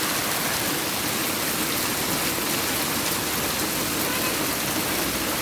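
Heavy rain mixed with hail pouring down, a dense, steady hiss with no let-up.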